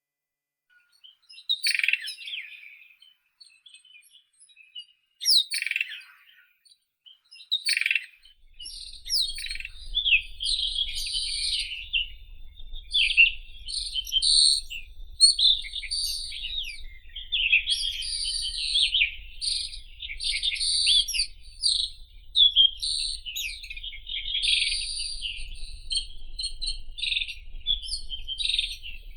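White-throated robin singing: a few short, separate phrases at first, then, from under a third of the way in, a fast, nearly unbroken run of varied notes with higher whistled notes mixed in.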